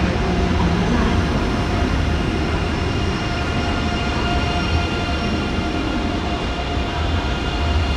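Electric train moving at a station platform: a steady low rumble with several constant high electric tones above it.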